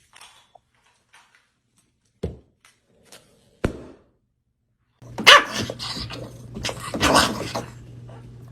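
A dog barking and yelping a few times in the second half, after two short knocks; a steady low hum runs under the barks.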